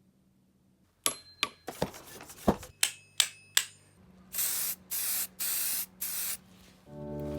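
Sharp clicks with a metallic ring, then four short hisses of an aerosol spray can, each about half a second, with music starting near the end.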